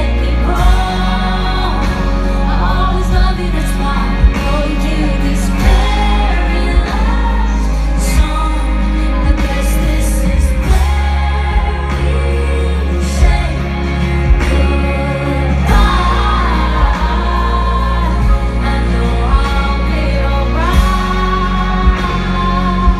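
Live pop band playing loudly with a steady drum beat and heavy bass, with a voice singing over it.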